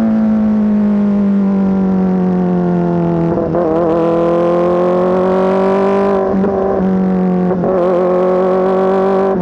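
Kawasaki ZX-4RR's 399 cc inline-four running loud through an SC-Project S1 exhaust at steady, fairly high revs. The pitch drifts slightly and wavers briefly three times.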